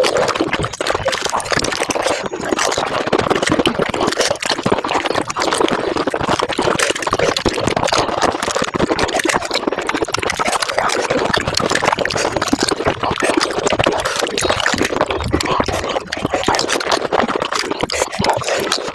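Pani puri being eaten, sped up about five times: a dense, continuous rush of crunching puri shells and wet slurping of the spiced water that runs together into a fast crackle.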